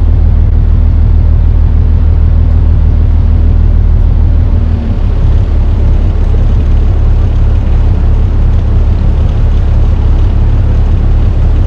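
A barge's inboard engine running steadily under way, with a constant rushing noise over it. About five seconds in, its higher tones drop away and the level dips briefly.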